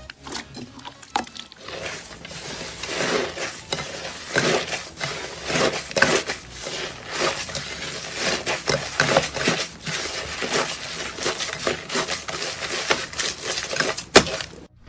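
Dense crunching and crackling from a crisp material being pressed and worked by hand, many quick small cracks in a row, with one sharper crack near the end.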